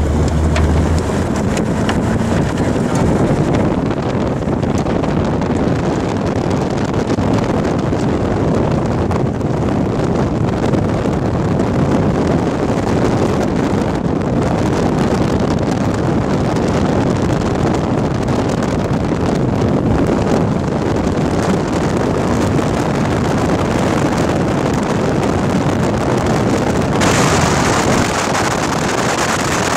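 Strong wind buffeting the camera microphone: a steady, gusting rush that grows hissier near the end.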